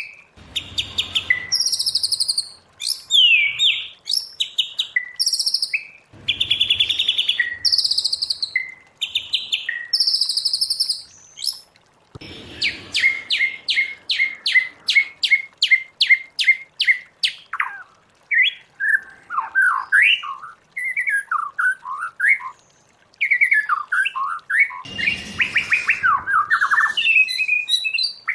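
White-rumped shama singing varied loud whistled phrases. About twelve seconds in comes a quick run of repeated notes, about four a second, which then breaks into fast warbling with rising and falling whistles.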